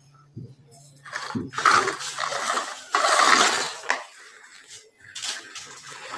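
Hard objects clattering and rattling in two spells of bursts, the loudest about two to three and a half seconds in.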